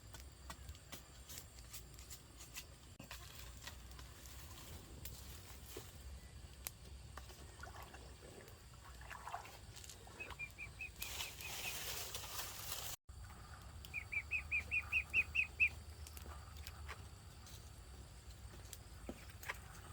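A bird calling two quick runs of short, high repeated notes, the second run of about nine notes growing louder, amid scattered small clicks and a brief rustling hiss in the middle.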